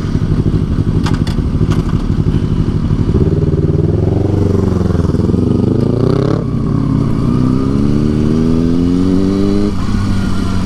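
Motorcycle engine pulling away under acceleration: a low steady pulse at first, then the revs climb, fall back sharply about six and a half seconds in, climb again and fall back once more near the end, as the bike shifts up through the gears.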